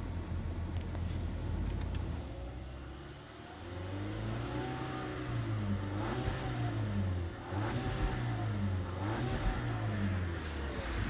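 Volkswagen Tiguan 2.0 TSI turbocharged four-cylinder with its catalytic converters and flame arrester cut out, heard from inside the cabin. The engine drones steadily for about three seconds, then the revs rise and fall in about four surges.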